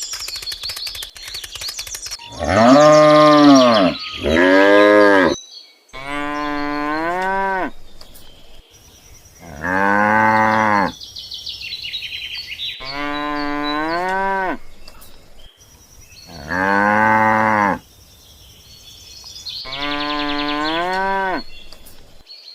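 Cattle mooing: seven long calls with short pauses between, each lasting a second or two, some bending up and then down in pitch.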